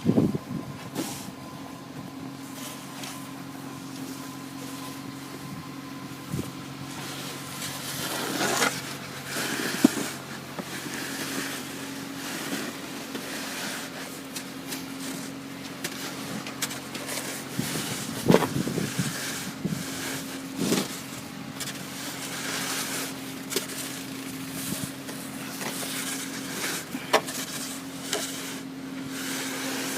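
Car engine idling with a steady hum while snow is scraped off the car, with scattered scrapes and knocks, the sharpest about nine, ten and eighteen seconds in.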